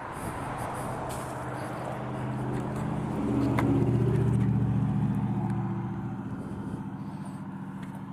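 A car passing by on the road, growing louder to its loudest about halfway through and then fading away.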